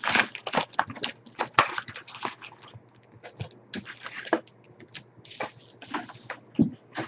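Trading card box packaging being torn and crinkled open by hand, in irregular rustling and ripping bursts.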